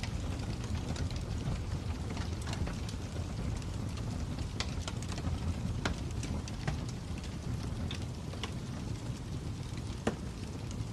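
Fire crackling: a steady low rumble with scattered sharp pops and snaps, the loudest about ten seconds in.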